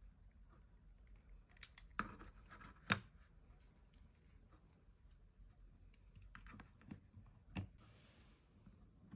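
Small plastic model-kit parts being handled and pulled apart: faint scrapes and light clicks, with sharper plastic snaps about two and three seconds in and a few more later, then a brief hiss.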